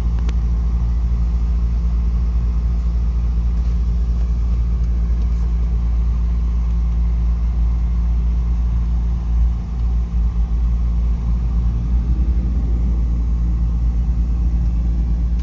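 Car running, heard from inside the cabin: a steady low rumble, briefly unsteady about ten seconds in.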